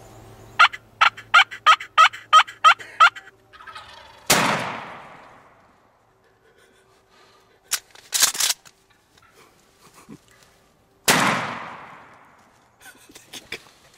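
A wild turkey gobbles in a quick run of about eight notes. A shotgun blast follows about four seconds in, with a long fading echo. After a brief clatter, a second shotgun blast comes about seven seconds after the first.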